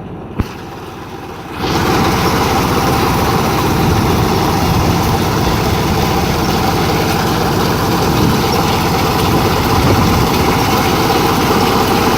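Yanmar YH150 mini combine harvester running: a quieter engine rumble with a single click, then about a second and a half in the sound jumps to a much louder steady running noise, engine rumble under a broad hiss.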